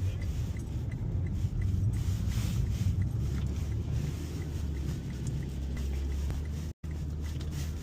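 Steady low road and engine rumble of a car being driven through a snowstorm, heard from inside the cabin. The sound cuts out for an instant near the end.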